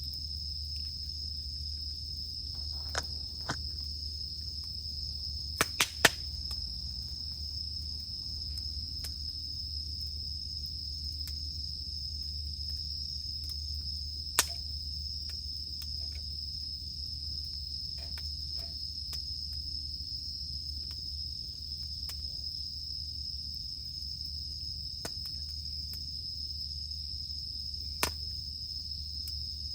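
Cicadas droning steadily in one high, unbroken note, over a low rumble from a campfire. The fire gives occasional sharp crackling pops, a quick cluster of the loudest about six seconds in and single ones later on.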